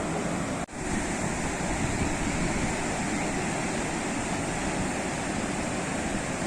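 Sea waves washing on the shore in a steady rush of surf, with a sharp momentary dropout in the sound under a second in.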